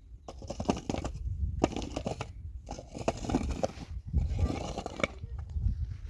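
Digging tool scraping and crunching into earth in four strokes, about one every second and a bit.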